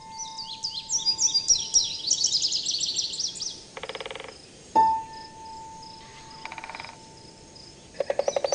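Birds singing in quick chirping phrases over a nature-sound bed, broken by short rapid trills. About halfway through, a single ringing tone sounds and slowly fades.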